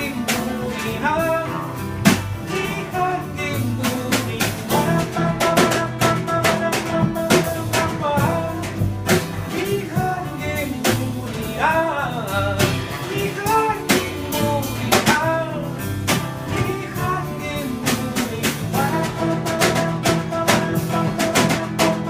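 Live band playing with a singer: voice over guitar, bass and drum kit with a steady beat.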